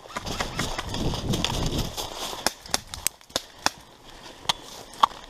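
Airsoft guns firing single shots on the field: a string of separate sharp cracks at uneven spacing. These follow a low muffled rumble in the first couple of seconds.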